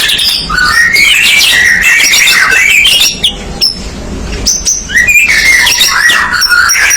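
White-rumped shama (murai batu) in full, continuous song: a loud, rapid run of varied whistled phrases, easing off briefly in the middle before picking up again.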